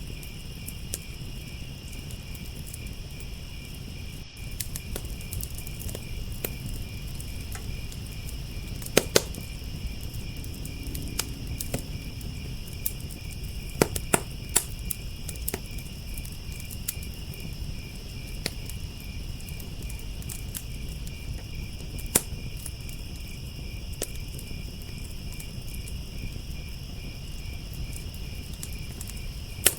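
Wood fire crackling and popping, with sharp snaps now and then, over a steady chorus of crickets chirping.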